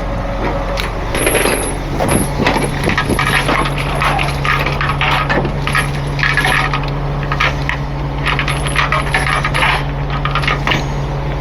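Tow safety chains being unhooked and pulled off a towed truck: metal links clinking and rattling repeatedly, over a truck engine running steadily.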